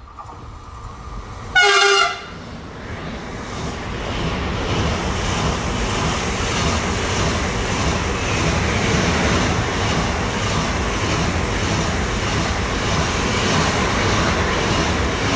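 SBB electric passenger train gives one short horn blast about a second and a half in. It then passes through the station at speed with a steady loud rushing rumble of wheels on rail.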